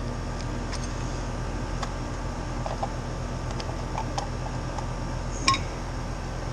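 Light clicks and taps from handling HVAC refrigerant manifold gauges and hose fittings, with one sharper click about five and a half seconds in, over a steady low hum.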